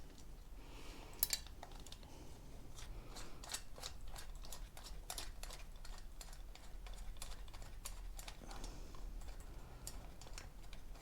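Irregular light clicks and ticks of small parts being handled, coming several a second at times, with one sharper click about a second in.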